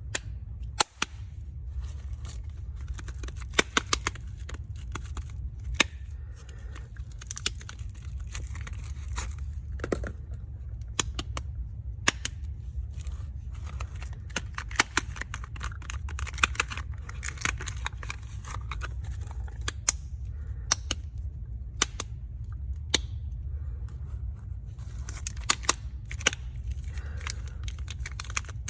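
Soap bars being unwrapped by hand: packaging crackling and crinkling, with frequent sharp clicks and taps, over a steady low hum.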